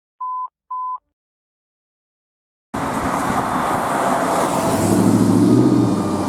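Two short electronic beeps of the same pitch, then silence, then street traffic noise cutting in suddenly with a vehicle engine rumble swelling and fading. A faint siren wails in the background.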